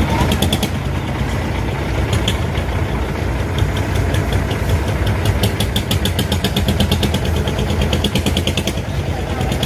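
Crane truck engine running steadily, with a fast, even ticking clatter over its low hum.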